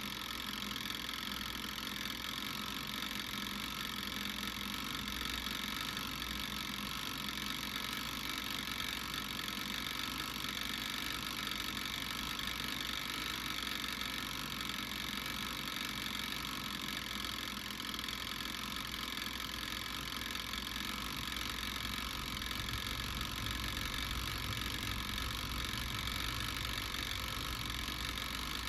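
Garlic cloves cooking in a hot pan, sizzling steadily.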